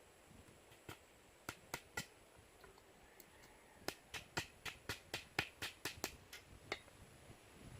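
A series of sharp clicks: four scattered ones in the first two seconds, then a quick run of about a dozen, roughly four a second, from about four seconds in.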